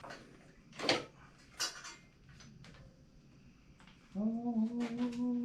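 Clicks and knocks of motorcycle parts being handled while taking the carburetor and air box apart. A steady humming tone starts about four seconds in and holds for over a second and a half.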